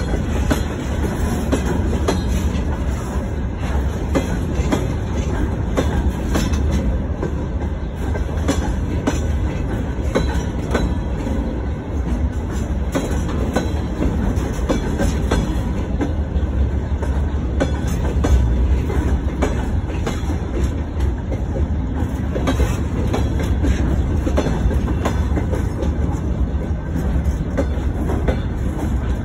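Freight train of open-top gondola wagons rolling past: a steady loud rumble of wheels on rail, with many quick clicks and knocks as the wheelsets run over the rail joints.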